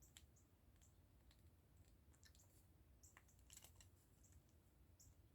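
Faint, scattered light clicks of small plastic model-kit parts being handled and fitted, with a small cluster of clicks about three and a half seconds in.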